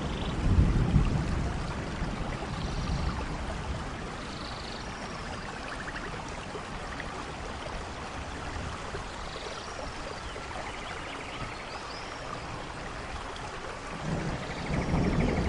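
Steady rain with rolling thunder: a low rumble about a second in that fades away, and another building near the end. Faint chirping calls now and then over the rain.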